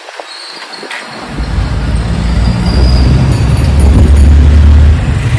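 Motorcycle on the move: low engine rumble and wind noise on the mic. They come in about a second in and build up, as the bike gathers speed, then ease off a little near the end.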